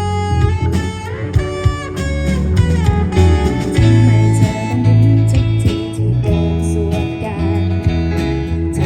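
A band playing, with guitar to the fore over bass and a steady beat.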